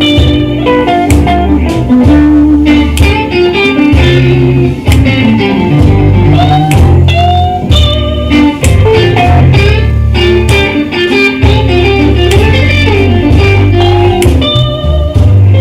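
Instrumental break of a blues song: guitar playing a melodic line with bent notes over bass and drums.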